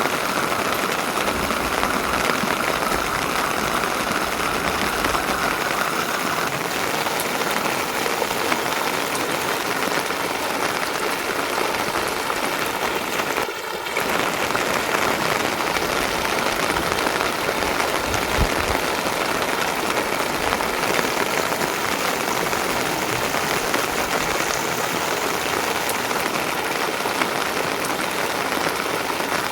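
Steady rain falling, an even hiss of drops, briefly dipping a little before halfway through.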